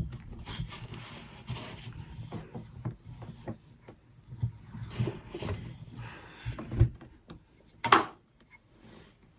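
Rolling pin rolling out shortbread dough on a work surface: irregular dull knocks and rubbing, with a sharper knock about eight seconds in.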